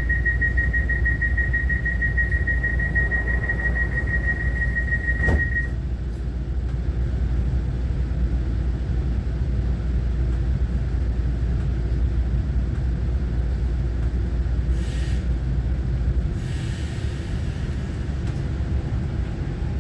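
Taiwan Railway EMU900-series electric multiple unit heard from inside, running at speed between stations: a steady low rumble from the wheels and track. A thin, high steady whine sounds for the first five seconds or so and stops just after a sharp click, and brief hissy sounds come about three quarters of the way through.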